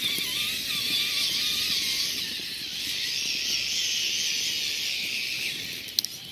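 Radio-controlled scale trail trucks crawling over rough ground, their electric motors and gearboxes whining and changing in pitch with the throttle. There is a sharp click about six seconds in.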